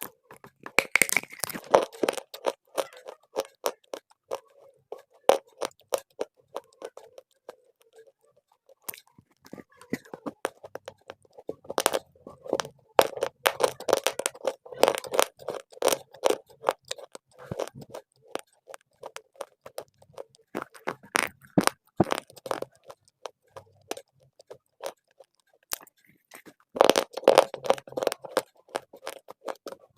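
Dry clay being bitten and chewed close to the microphone: sharp, dense crunching in several bouts with quieter stretches between them.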